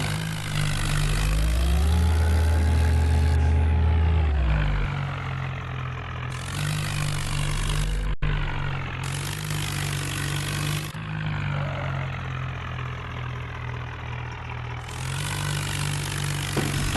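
Massey Ferguson 9500 tractor's diesel engine running, revving up and settling back down about a second in, then running steadily.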